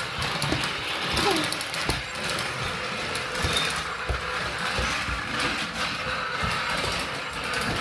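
Small battery-powered toy motor whirring steadily, with irregular light knocks.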